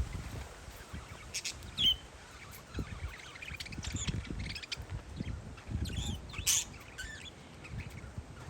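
Parakeets chirping: short, high calls scattered through, the loudest about six and a half seconds in. Low wind rumble on the microphone runs underneath.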